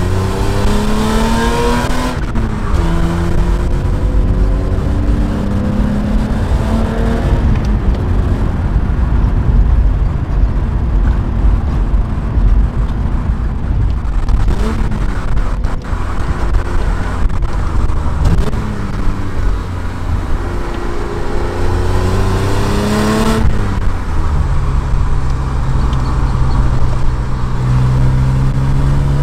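BMW E30 320i's M20 straight-six engine and exhaust driving through the gears. The revs climb and fall back at each upshift, hold steady while cruising, and twice rise and drop in quick blips, the heel-and-toe rev-matching of downshifts. Near the end the revs climb again before a final upshift to a steady lower note.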